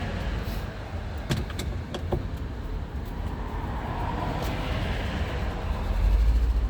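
Screws being backed out of a car's interior door panel with a Phillips screwdriver: a few light clicks between one and two seconds in, over a steady low rumble that swells near the end.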